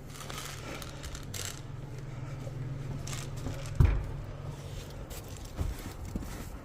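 Handling noise, rustles and light clinks, over a steady low hum, with one sharp knock a little under four seconds in and a few small clicks after it.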